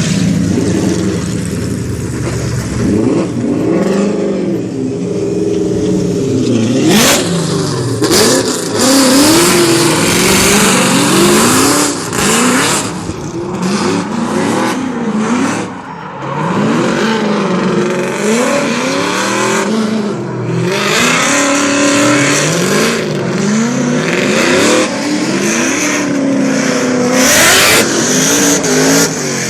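Drift car's engine heard from inside the car, revving up and dropping back again and again as it is driven hard through drifts, with repeated bursts of tyre skid noise.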